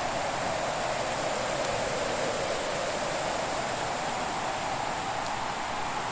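Fire burning in a hearth: a steady rushing hiss with a few faint, sparse crackles.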